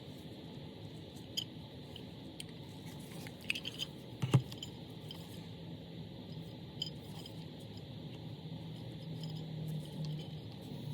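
Small hard parts or tools being handled on a work surface: scattered light clicks and taps, with a cluster a little past three seconds in and a sharper knock just after four seconds, over a low steady hum.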